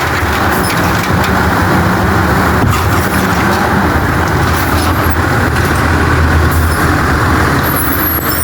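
Autocar WX64 garbage truck engine revved up and held at high speed to drive the Amrep side-loader's hydraulic packer as it compacts trash. The engine note is steady, firming up about a second in and strongest in the second half, with a hiss over it.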